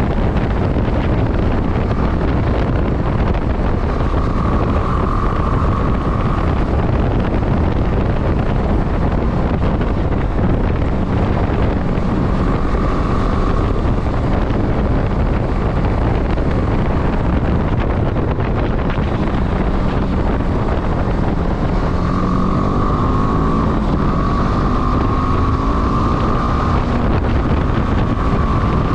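Wind rushing over the microphone while riding a motorcycle, with the bike's engine note rising and falling a few times under it.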